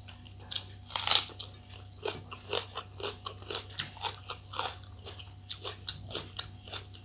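Close-miked eating: biting and chewing, a run of short wet crunches and mouth clicks two or three a second, the loudest about a second in.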